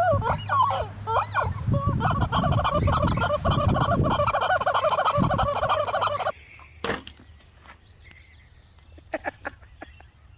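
Turkey gobbling: a few short calls, then about two seconds in a long, rapid warbling gobble that lasts about four seconds and cuts off abruptly, leaving only a few faint clicks.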